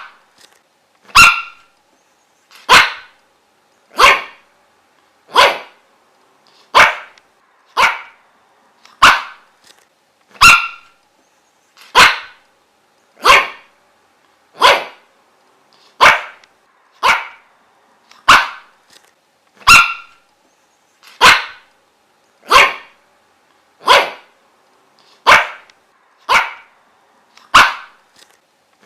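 A dog barking single, sharp barks over and over at a steady pace, about one every second and a half, with short gaps between them.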